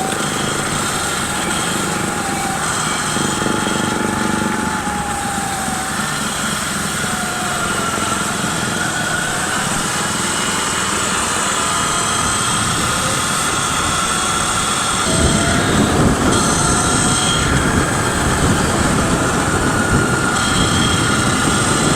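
Electric bike motor whining while riding, its pitch slowly rising and falling with speed, over wind and tyre noise. About fifteen seconds in, the rough wind noise grows heavier.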